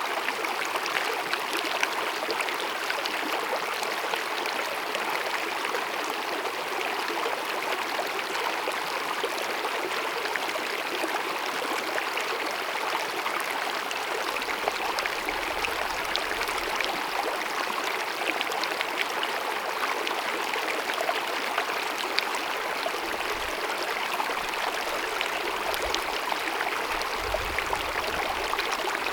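Small glacier-fed mountain meadow stream babbling and cascading steadily, a continuous splashing rush of water.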